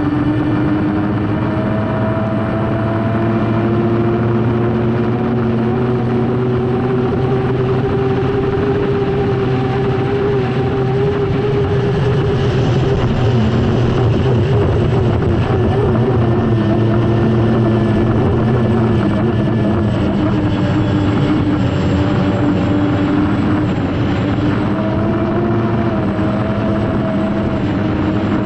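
Lycoming T55 turbine engine of an unlimited hydroplane running hard, heard onboard. It is a loud, steady rush with a whine that drifts slowly up and down in pitch.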